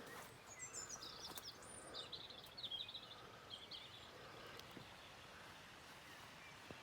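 Faint outdoor ambience with a small bird giving a quick run of high chirping calls in the first half, then only a quiet steady hiss of background noise.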